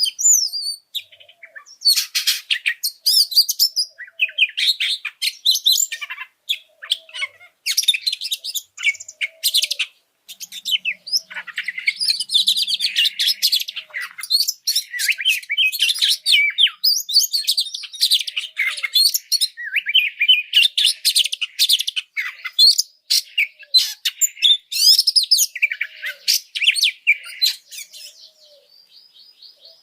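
Oriental magpie-robin (kacer) singing a loud, rapid, highly excited song of varied whistles, trills and sharp chirps in near-continuous phrases, dying down near the end. Faint short low notes repeat about once a second underneath.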